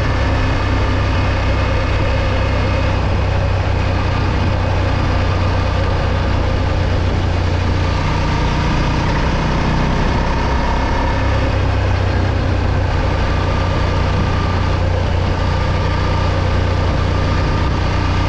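Moto Morini X-Cape 650's parallel-twin engine running steadily: a low, even drone that holds the same pitch throughout, with no revving.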